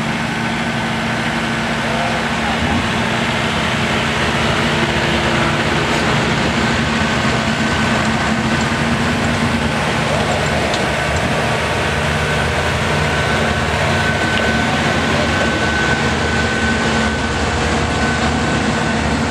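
Tractor engine running steadily at an even speed, with a constant low hum and a steady higher whine over it.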